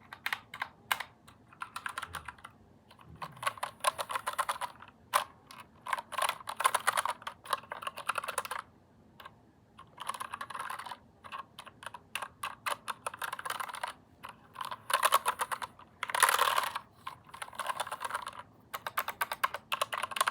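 Typing on a keyboard: fast runs of key clicks broken by short pauses.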